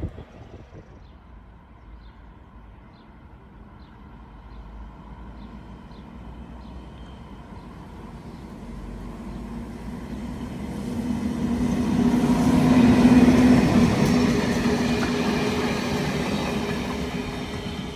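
A train approaching and passing: the rumble builds slowly, peaks about two-thirds of the way through with a steady hum, then fades a little.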